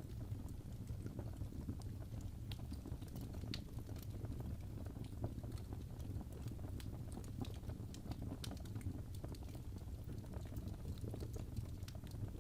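Wood fire crackling in a fireplace: irregular sharp snaps and pops over a steady low rumble of the burning.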